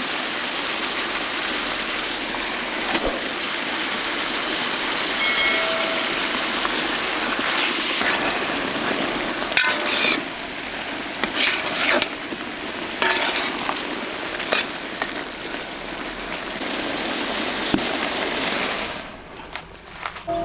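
Food sizzling in a hot pan, with scattered scrapes and knocks of a utensil stirring it. The sizzle fades near the end.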